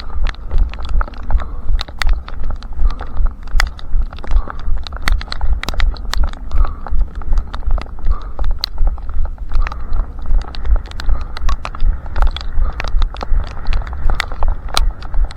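A runner's footsteps at a steady stride, about three a second. Each step lands with a low thud and sharp clicks.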